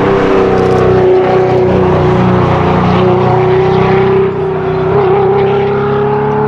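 A performance car's engine running at high, nearly steady revs, its pitch sagging slightly and climbing back.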